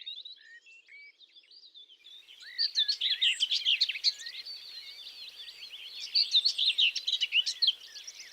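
Small songbirds chirping and singing, several at once, in quick high warbles and trills. About two seconds in the chorus turns louder and denser, over a faint steady hiss.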